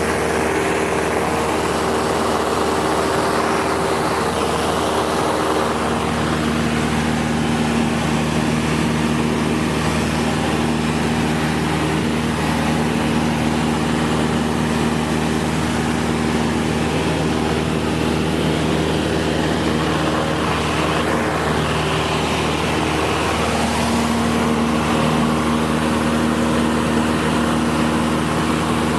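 Cessna 172 SkyHawk II's four-cylinder piston engine and propeller droning steadily in cruise flight, with a constant rush of airflow. The engine's tone shifts slightly about six seconds in and again near the end.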